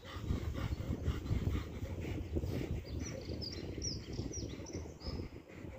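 Small birds chirping several short calls in quick succession about three to five seconds in, over a low fluttering rumble of outdoor noise on the microphone.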